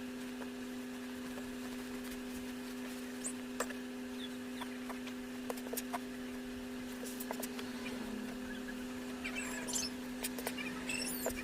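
Light rustling and scattered clicks of fabric scraps being handled and stuffed into a pillow, over a steady hum. A run of high, squeaky chirps comes near the end.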